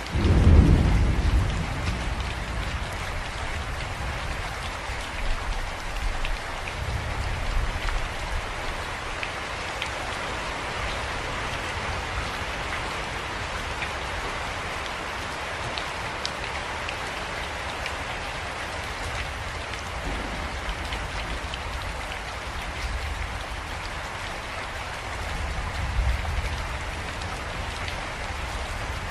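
Steady rain falling, an even hiss of drops on a surface. A deep low rumble swells up just after the start, the loudest moment, and weaker low rumbles come back a few times later.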